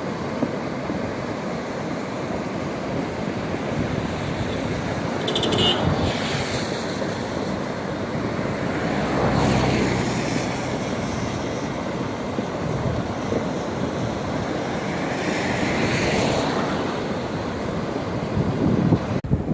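Steady rush of rain-fed floodwater flowing down a wadi, mixed with wind on the microphone, swelling louder a few times.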